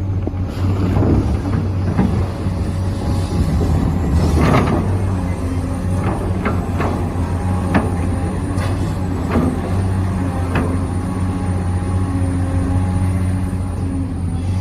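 Remote-control construction models running with a steady low hum, with a few sharp clicks and scrapes over the run, from about four seconds in.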